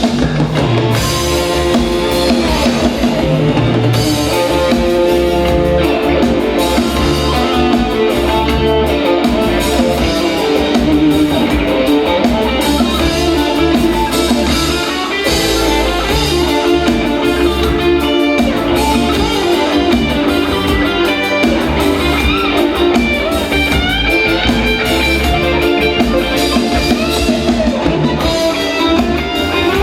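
Live rock band playing an instrumental break: electric guitar over bass and drum kit.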